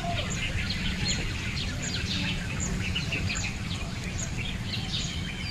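Small birds chirping continually in many short, high calls over a low steady rumble.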